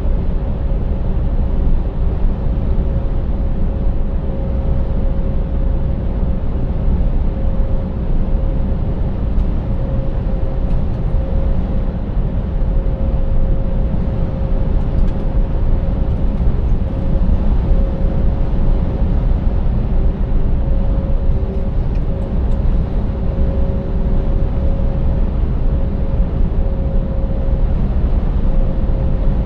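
Scania 590S truck's 16-litre V8 and tyres droning steadily while driving, a low rumble with two faint steady whining tones above it and no change in engine speed.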